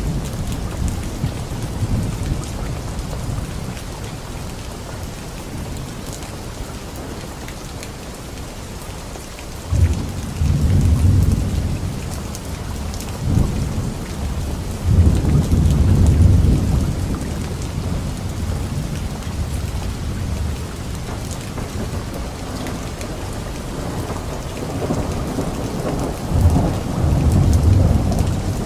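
Rain falling steadily in a light rainstorm, with low rolling thunder that swells several times: about ten seconds in, again from about thirteen to seventeen seconds, and near the end.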